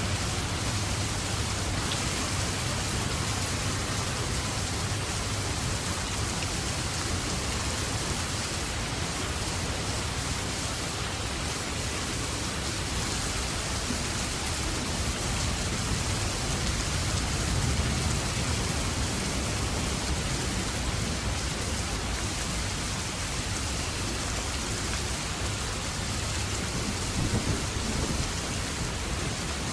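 Steady rain falling and hitting surfaces, an even hiss with a low rumbling underneath.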